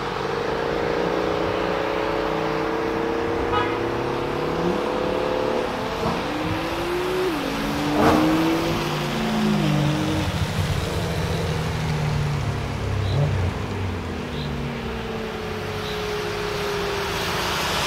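BMW E92 M3's 4.0-litre V8 with a decatted SuperSprint exhaust (X-pipe and F1 race mufflers) accelerating hard up through the gears. The revs climb and drop at each shift, loudest as the car passes about eight seconds in, with tyre hiss on the wet road.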